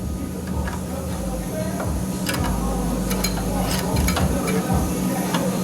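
Welding on a sheet-metal cab corner patch panel: a steady crackling sizzle from the arc, with a constant low hum underneath.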